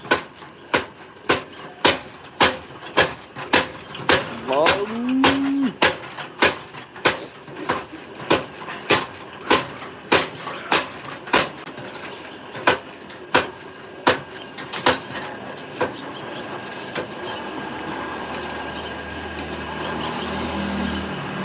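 Blacksmith's mechanical power hammer striking metal in a steady beat of nearly two blows a second, with the blows mostly stopping about fourteen seconds in, leaving a steady hum. A cow moos once, about five seconds in.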